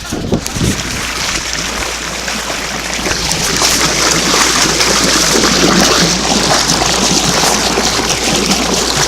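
Water running and splashing, a steady rushing hiss that grows louder about three seconds in, after a couple of knocks at the very start.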